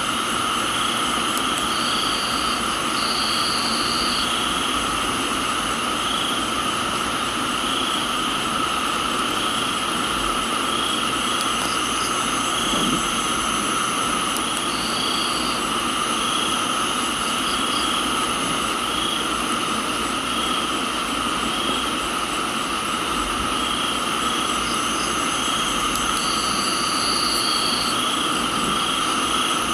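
Steady rain hiss in a tropical garden with a dense chorus of crickets and other night insects chirring in several steady pitches. One voice pulses about once a second, and short higher trills come in a few times.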